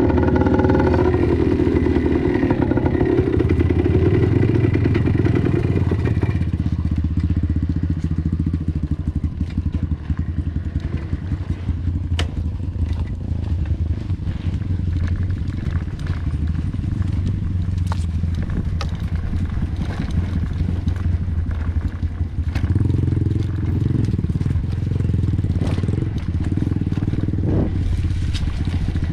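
A vehicle's engine running steadily, as from a vehicle on the move. It revs higher in the first few seconds and again for a few seconds near the end.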